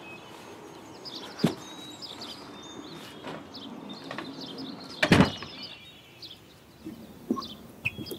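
Small birds chirping with two sharp knocks, one about one and a half seconds in and a louder one about five seconds in, then a few lighter knocks near the end.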